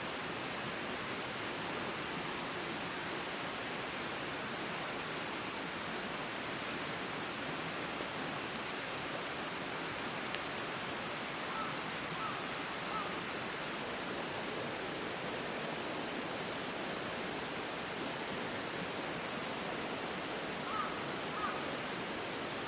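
Steady hiss of rain falling, with a couple of faint sharp clicks and a few short high chirps.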